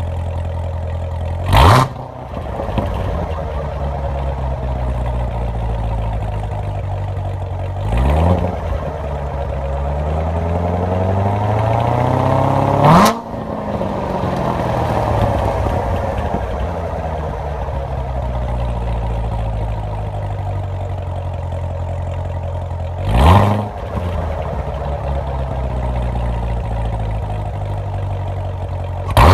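Chevrolet C7 Corvette Z06's supercharged 6.2-litre V8 idling through a Borla X-pipe with the NPP exhaust valves open, blipped four times with quick revs. About ten seconds in, it climbs through a longer rev that peaks and drops back. Each rev falls away to a steady idle.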